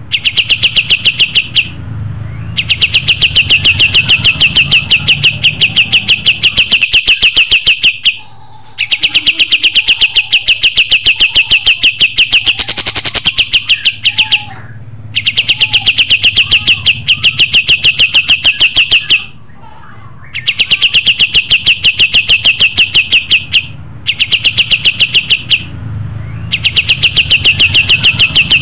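A kapas tembak songbird singing a loud, rapid, evenly pulsed trill in long phrases of several seconds each, broken by brief pauses. Fainter chirps from other birds sit underneath.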